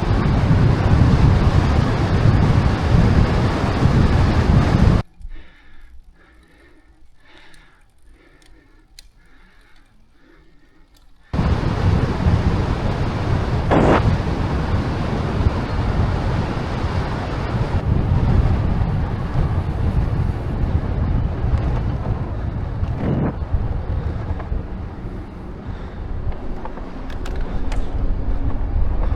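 Wind buffeting the microphone of a camera on a moving bicycle: a loud, steady noise heavy in the low end. It drops away to a faint background for about six seconds, then comes back at full strength.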